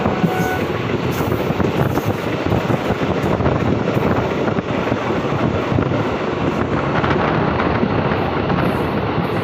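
Passenger train running along the track: a steady rumble of wheels on rails with rushing air, heard from the open side of the moving coach.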